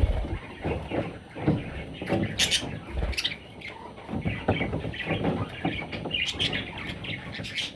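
Baby budgerigars chirping in short, high bursts, among irregular scratching and rustling.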